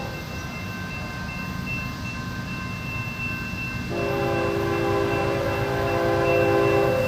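BNSF freight locomotive's air horn sounding a chord of several notes: one long blast from about four seconds in and another starting at the end, over the steady rumble of the passing train.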